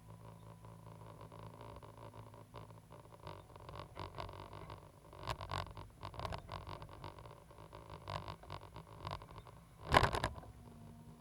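Caterpillar 320GC excavator running with a steady low engine hum, with a run of clicks and rattles and one loud knock near the end.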